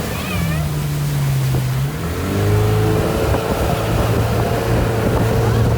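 Motorboat engine running at speed. Its note sags over the first two seconds, then it picks up, slightly louder, and holds steady, with wind and water rushing over it.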